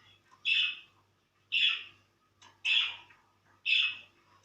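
A budgerigar calling: four short chirps, about one a second.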